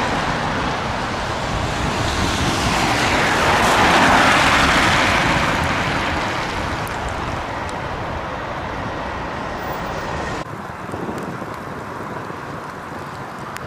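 A vehicle passing close by, its noise swelling to a peak about four seconds in and then fading, with wind on the microphone. The sound drops abruptly about ten and a half seconds in.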